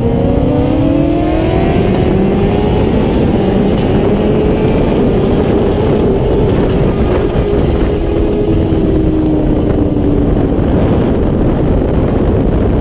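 Motorcycle engine rising in pitch as it accelerates over the first few seconds, then holding a steady note and easing off slightly, under heavy wind rush on the microphone.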